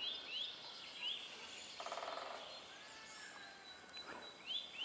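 Faint woodland birdsong: a bird repeats a short rising call about twice a second, breaks off, and starts again near the end. A short, quick rattle comes about two seconds in.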